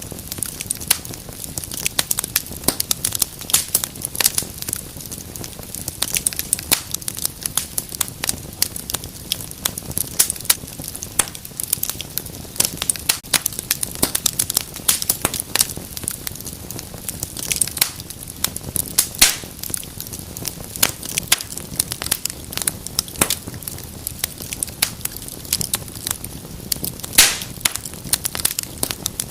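Wood fire burning in a fireplace, crackling and popping in quick, irregular snaps over a steady low hiss.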